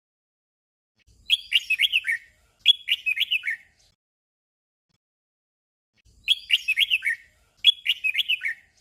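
Red-whiskered bulbul singing its short 'double' song: a quick warbled phrase given twice in a row, with the pair repeated about five seconds later.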